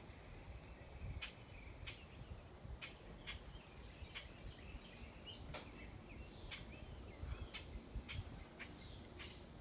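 Small songbirds chirping around a bird feeder: many short, sharp chirps a few times a second, with some wavering calls among them, over a low steady rumble.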